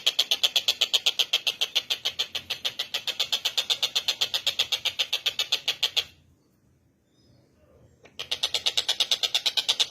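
Tengkek buto bird calling in a long, fast, even rattle of about ten notes a second. The rattle breaks off about six seconds in and starts again after a two-second pause.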